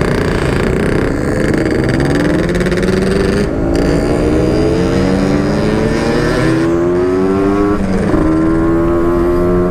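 Motorcycle engine accelerating hard through the gears, its pitch climbing in steps with three brief drops at the gear changes, about three and a half, six and a half and eight seconds in.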